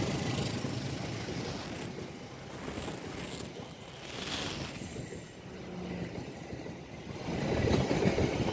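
Rail noise from trains at a level crossing: a steady rumble that fades through the middle and grows louder again near the end as a train draws close.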